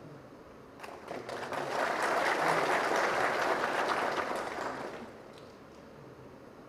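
Audience applauding: scattered claps begin about a second in, build quickly into full applause, then die away about five seconds in.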